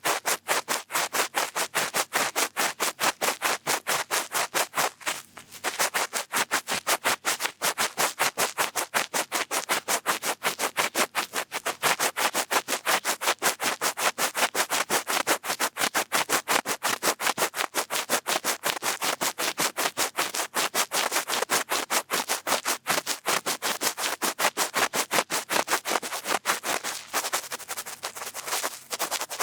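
Cotton bud rubbing and scratching close against the microphone in rapid, even strokes, several a second, to mimic ear cleaning. There is a short break about five seconds in, and the strokes soften near the end.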